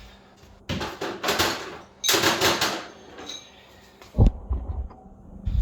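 Hand tools being gathered and moved aside, clattering and scraping in three rough bursts, followed by a few low thumps near the end.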